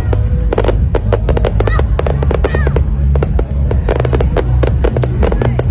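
Fireworks going off in a rapid, irregular string of sharp bangs and crackles, several a second, over loud music with a heavy bass.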